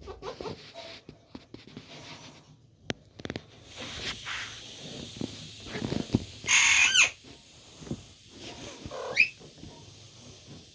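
Parrot calling: one loud squawk about two-thirds of the way through and a shorter rising call a couple of seconds later, among scattered clicks and rustles.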